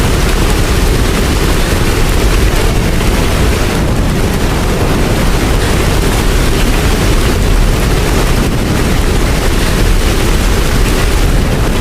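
Steady rain: a dense, even hiss with a deep low rumble underneath.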